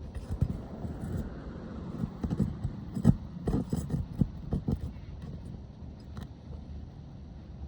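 Irregular knocks, clicks and scrapes of a pry tool working roofing nails out of asphalt shingles, the loudest knock about three seconds in, easing off after about five seconds.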